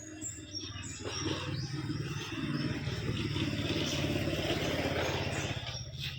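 A motor vehicle's engine passing by, growing louder from about a second in and fading near the end, with small birds chirping.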